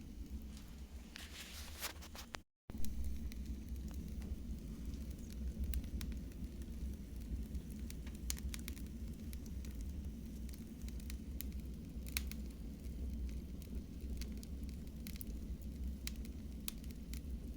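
Wood fire burning in a fireplace: a steady low rumble with scattered sharp crackles and pops. There is a brief gap of silence about two and a half seconds in.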